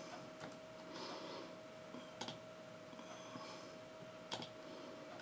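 Faint room tone: a steady hum with a few soft, sharp clicks and short breathy hisses.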